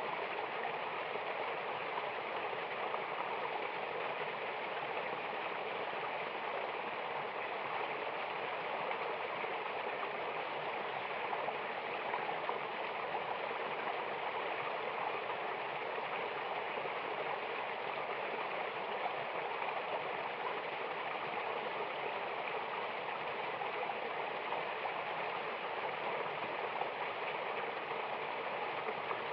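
Steady rush of water from a snow-fed mountain waterfall and river, an even hiss with no splashes or breaks standing out.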